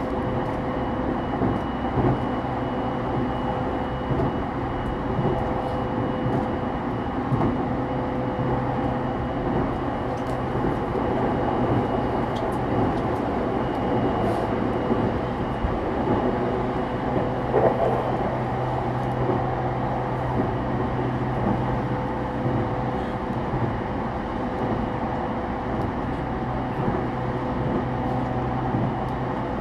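JR East E231-series suburban electric multiple unit motor car (MoHa E231-1095) running steadily at speed: a continuous rumble of wheels on rail with steady hums from the running gear and a few faint clicks.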